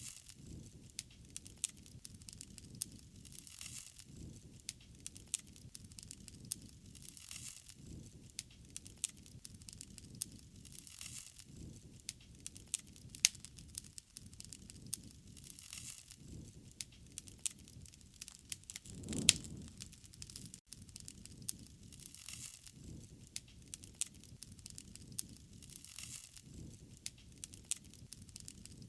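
Wood fire crackling, with frequent sharp pops and a low rumble from the flames. One pop, about two-thirds of the way through, is louder than the rest.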